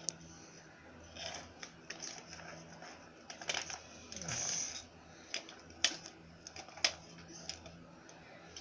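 A sleeping dog snoring and snuffling in short irregular bursts, the longest about four seconds in, with a few sharp clicks over a faint steady hum.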